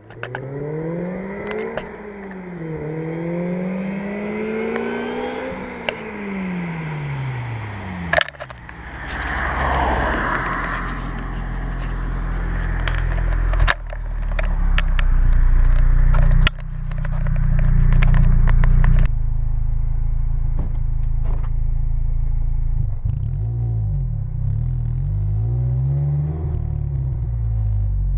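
Supercharged Honda K20 inline-four engine swapped into a Mazda RX-8, revving so its pitch climbs and drops several times. A louder, rougher stretch of running comes in the middle, and the pitch swings up and down again near the end.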